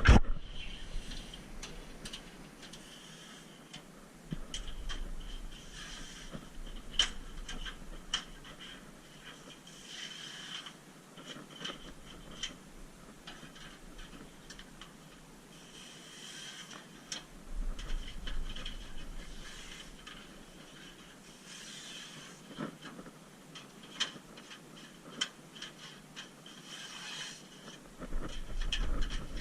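Intermittent rubbing and scraping from hand work on a car during rust-proofing, with scattered sharp clicks and short hisses every few seconds, and a low rumble at times.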